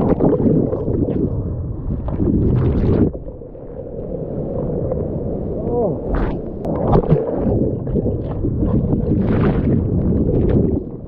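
Surf whitewater from a closing-out wave churning and splashing over a swimmer's point-of-view camera, with water sloshing and gurgling against the microphone. Brighter splashes come about two seconds in and again near the end.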